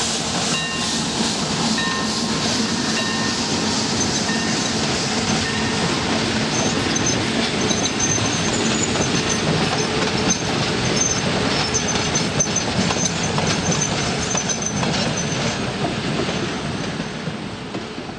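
Narrow-gauge steam train rolling past, its cars' wheels clicking over the rail joints with a faint high wheel squeal; the sound fades near the end.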